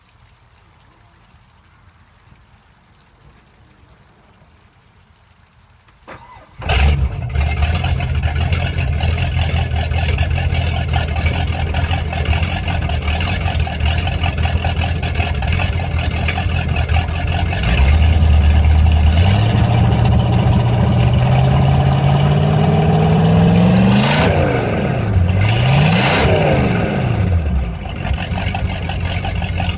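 Volvo Penta 5.7 V8 marine engine with Corsa Captain's Call exhaust starting about six seconds in, catching at once and idling. It is then revved up steadily to a peak, let drop, blipped once more and settled back to idle near the end.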